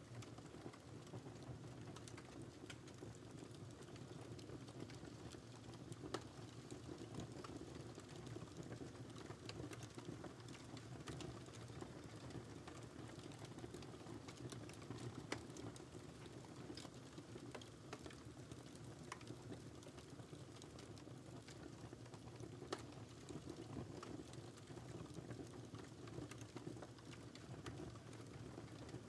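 Wood fire crackling: a steady low rumble of burning with scattered small snaps and a few louder pops.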